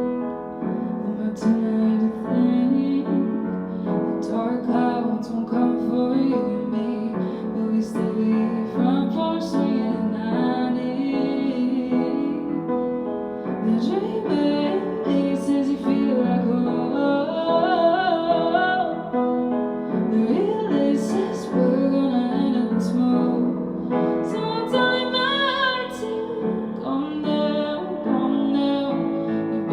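A woman singing with piano accompaniment; some long held notes carry a clear vibrato.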